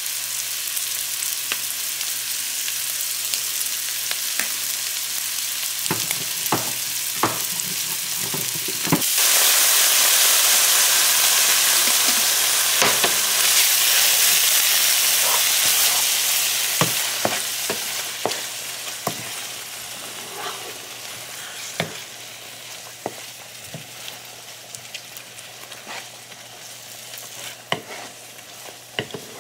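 Ground beef sizzling in a hot frying pan, stirred with a wooden spoon that scrapes and taps the pan. About nine seconds in the sizzle gets much louder as tomato sauce goes into the hot pan, then eases off over the following seconds.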